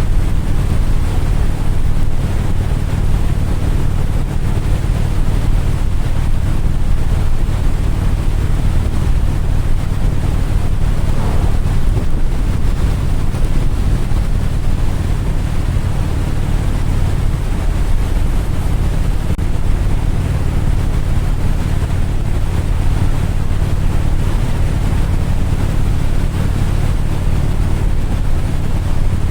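Steady low engine drone under heavy wind rushing over the microphone.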